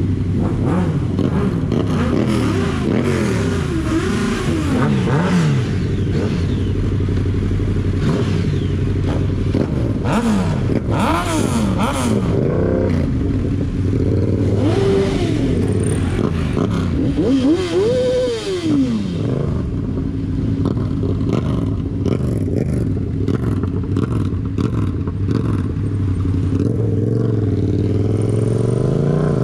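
Vehicle engines revving up and falling back again and again, several at once, over a steady idling rumble.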